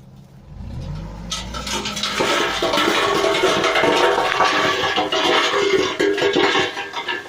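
Dump truck engine revving with rising pitch as the bed tips, then a load of sand and gravel sliding off the tipped bed in a long loud rush with a rattle of stones, stopping suddenly near the end.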